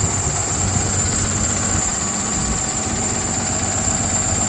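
Cummins diesel engine of a Freightliner truck running steadily at idle, powering the hydraulics of the aerial boom as the boom is lowered into its cradle. A thin high tone holds steady over the engine.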